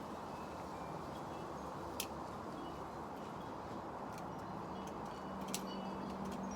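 Wind blowing over the microphone as a steady rush, with two sharp clicks, one about two seconds in and one near the end. A low steady hum comes in about five seconds in.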